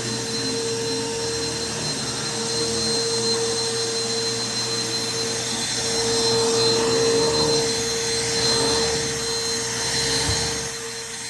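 Bissell PowerForce Helix 1240 upright vacuum cleaner running steadily while vacuuming carpet, a constant motor whine over airflow rush. It gets louder for a few seconds past the middle and eases off near the end.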